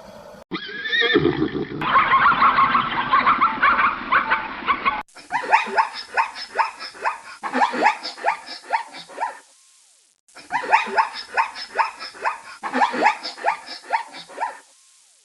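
Horse whinnying: a long, quavering neigh, then the same run of pulsing whinnies heard again after a short break.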